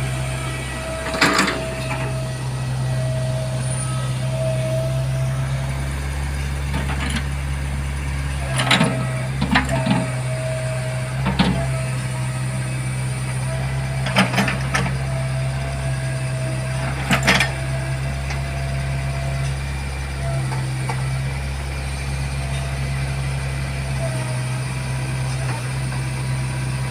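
Backhoe's diesel engine running steadily under load, with a thin steady whine that comes and goes, as the machine works to climb onto a truck bed; about seven sharp knocks ring out over the middle of the stretch.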